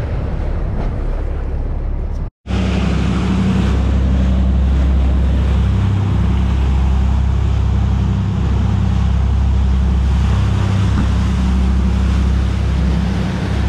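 Boat engine running steadily underway, a constant low drone, with wind on the microphone and rushing water over it. The sound drops out for a moment about two seconds in.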